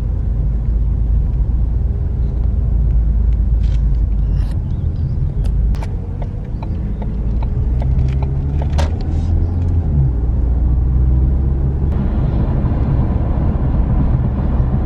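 Car driving, heard from inside the cabin: a steady low engine and road rumble, with a few sharp clicks and knocks in the middle.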